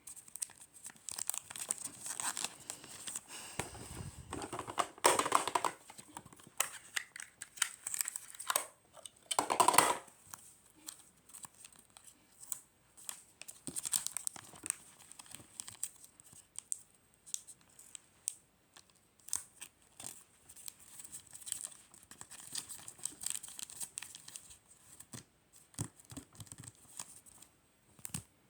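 Paper and plastic packing materials being torn and crinkled by hand in short, irregular bursts while a gift is wrapped, loudest about five seconds in and again near ten seconds.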